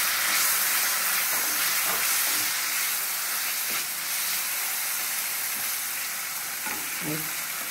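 Chopped tomatoes sizzling as they hit hot oil with frying onions and spices in a pan, a wooden spatula stirring and scraping through them. The sizzle is loudest at the start and eases off slowly.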